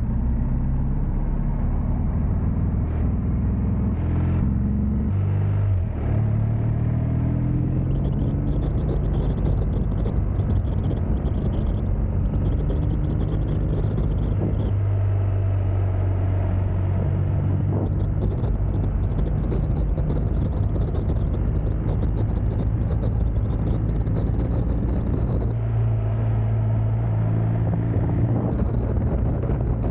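Motorcycle engine under way, rising in pitch a few times in the first seconds with a brief drop about six seconds in, then holding a steady pitch while cruising. Wind rushes over the microphone throughout.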